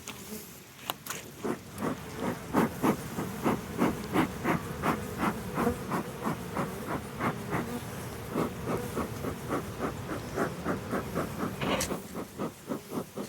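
Honey bees buzzing around an open hive, under a rapid run of even puffs, about three a second, typical of a beekeeper's smoker bellows being pumped. A single sharper knock comes near the end.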